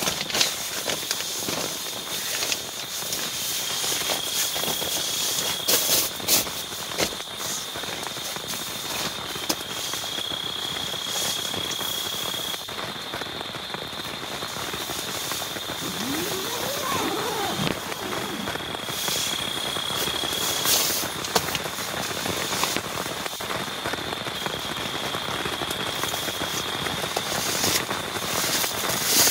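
Heavy rain falling steadily, with many sharp drop impacts standing out above it.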